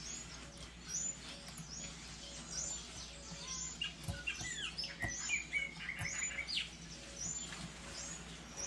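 Birds chirping in the background: one bird repeats a short high chirp about once a second, with scattered chirps from others in between.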